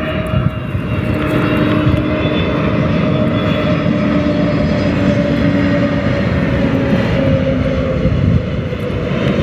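Airbus A320 jet airliner on final approach close by, its engines giving a loud, steady drone. A whining tone in the drone sinks slightly in pitch as the plane passes.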